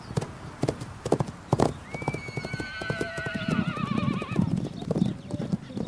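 Przewalski's horse giving one long, wavering whinny starting about two seconds in, over repeated clip-clop of hooves.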